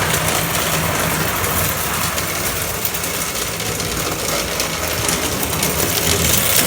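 Toy electric train running around its track: the small motor of a 1940s General 4-4-0 locomotive gives a steady whir with a low hum under it.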